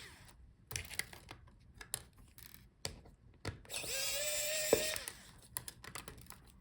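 A small electric screwdriver whirs for about a second, backing out a tiny screw from under a bracket on the laptop's palmrest. Around it come light clicks and taps of the screwdriver bit and of small metal and plastic parts being handled.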